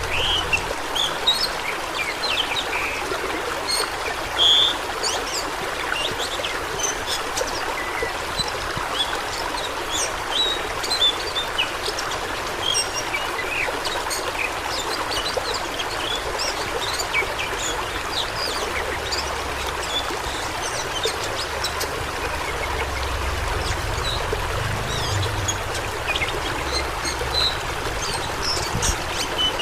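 Fast-flowing stream water rushing and splashing steadily, with many brief high-pitched sounds scattered through it.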